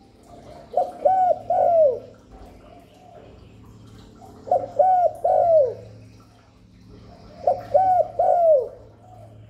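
Spotted dove cooing: three phrases of two short coos followed by a longer, falling coo, repeating about every three seconds.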